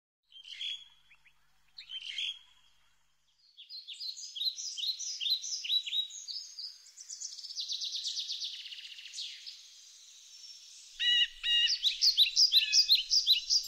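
Birds chirping and singing: two short calls in the first couple of seconds, then a busy run of quick repeated chirps and trills from about four seconds in, loudest near the end.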